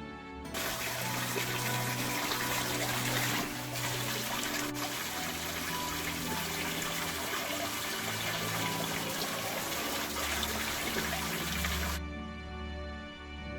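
Rushing water, a steady full hiss that starts and stops abruptly, over background music.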